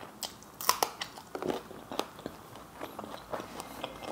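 Close-up eating sounds of biting into a raw green chilli and chewing it: a run of crisp crunches, the loudest within the first second and a half, then smaller crunches and chewing.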